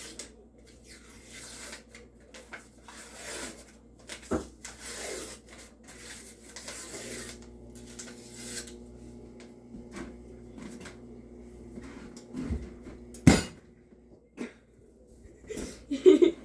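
Kitchen handling noise: irregular rustling and scraping of packaging and utensils during preparation of refrigerated biscuit dough, with one sharp clack about 13 seconds in.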